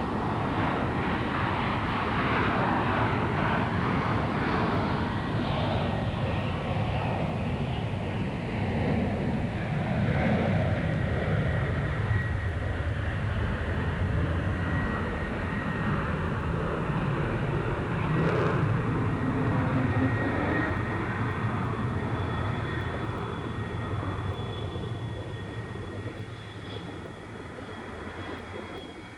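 Jet aircraft engines running loud, with a steady high whine over the rumble, then fading away over the last several seconds.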